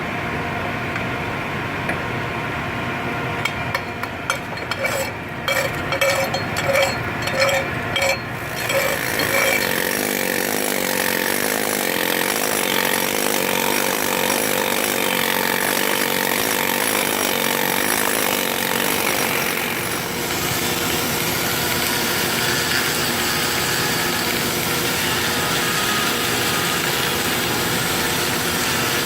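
Industrial metal repair work over a steady machinery hum: a run of sharp clicks and knocks a few seconds in, then from about nine seconds a loud, steady, harsh hiss that carries on.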